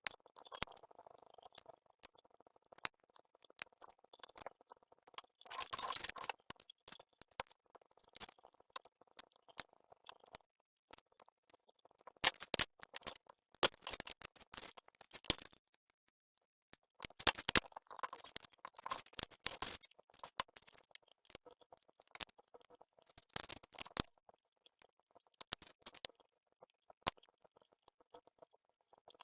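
Close-up hand work: scattered sharp clicks and snips with short bursts of rustling, coming in clusters separated by quiet gaps.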